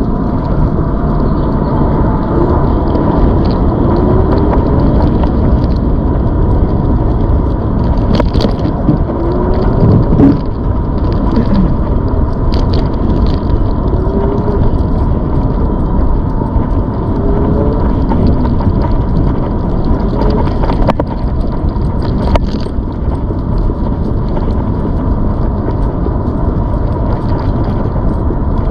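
ZOOZ electric bike being ridden: a steady rumble of wind on the microphone, with a constant high whine and a few rattling clicks.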